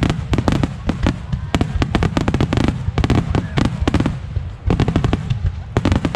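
Fireworks show: a dense barrage of aerial shells bursting, many sharp bangs a second, with a brief dip about four and a half seconds in.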